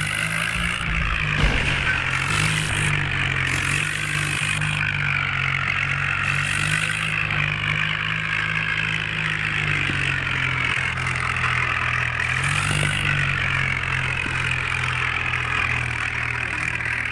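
John Deere 5055 tractor's diesel engine running steadily, with a single brief knock about a second and a half in.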